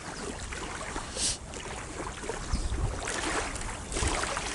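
Outdoor wind-and-water noise: a steady hiss of wind on the microphone and moving water, with a short high hiss about a second in and a few low knocks and rustles later on.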